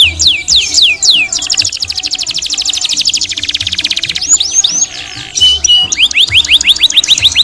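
Domestic canary singing: quick repeated falling whistled notes, then a fast rolling trill for about two and a half seconds, then a few held notes and another run of rapid swept notes.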